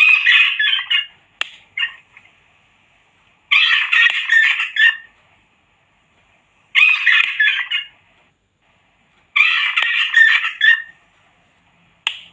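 Rat squealing in shrill, chattering bursts, about four of them each lasting a second or so and coming roughly every three seconds, as if looped. It is played as a rat-repellent sound, meant as rat distress cries.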